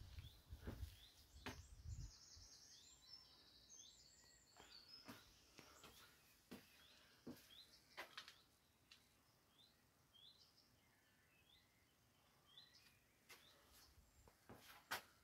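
Faint bird chirps, short and repeated about once a second, with a higher twittering trill in the first few seconds, against scattered sharp clicks.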